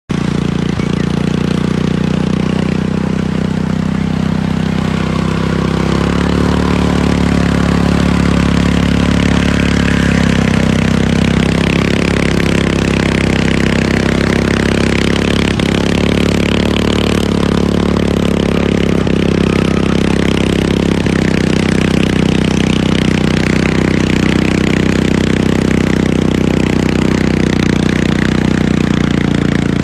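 Tractor engine running steadily, picking up slightly in speed about six seconds in.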